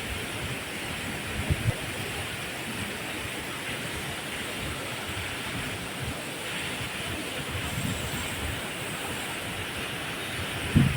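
Waterfall water rushing in a steady hiss, with a couple of short low thumps about a second and a half in and again near the end.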